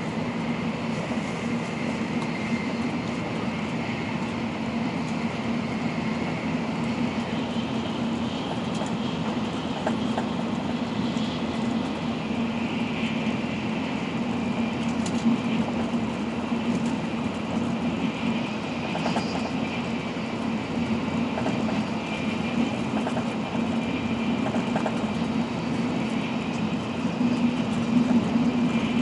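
Steady running noise of an N700-series Shinkansen heard inside the passenger cabin: a constant low rumble with a rushing hiss and a few faint clicks.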